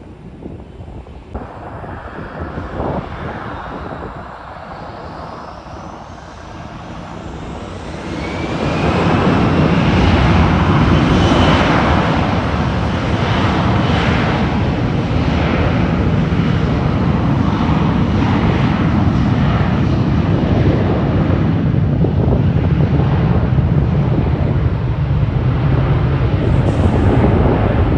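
A jet airliner's engines passing close, with a faint rising whine; the sound grows loud about eight seconds in and stays loud.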